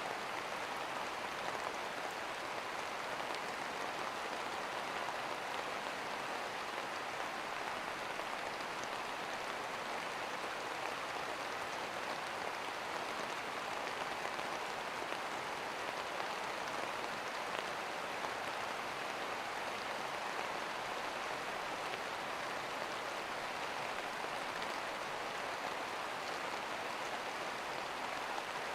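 Steady rain falling: an even hiss of rain with faint scattered drop ticks.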